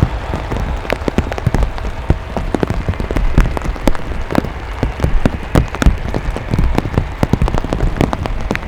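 Heavy rain drops striking a surface close to the microphone, a dense irregular patter of sharp taps over a steady low rumble.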